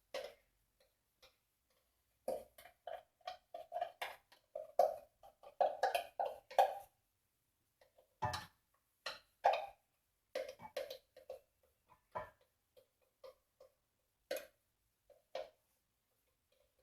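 Raw chicken wings and marinade being handled in a basin: an irregular series of short wet squelches and knocks, densest in the first half and sparser after.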